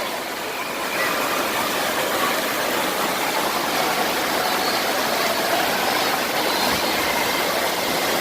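Steady rush of splashing water at a water park's slides, with faint distant voices underneath.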